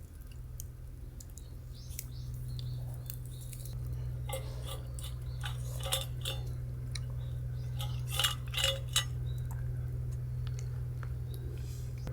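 Light clinks and taps of utensils against dishes and cookware, with a few sharper clinks about eight to nine seconds in, over a steady low hum.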